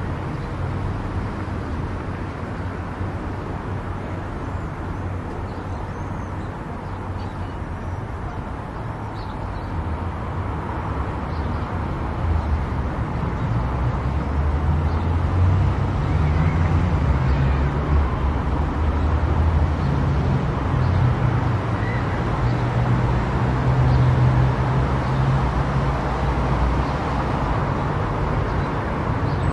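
A car driving on a highway: steady tyre and engine noise with a low drone that grows louder about ten seconds in.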